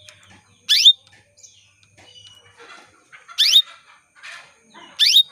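Female domestic canary calling to a male: a sharp, steeply rising call note three times, about two seconds apart, with fainter chirps between.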